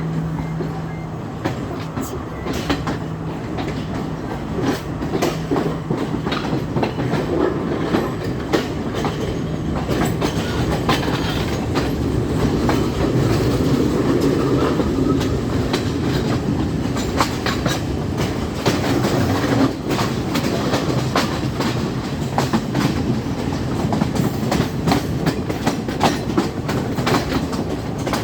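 Passenger train moving off and gathering speed just after the green-flag departure signal. Its wheels clack over the rail joints, the clacks coming faster and the running noise getting louder about ten seconds in.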